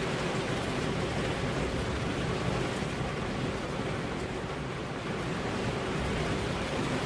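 Steady rain and wind ambience: an even, dense hiss with a lot of low-end weight, holding level throughout.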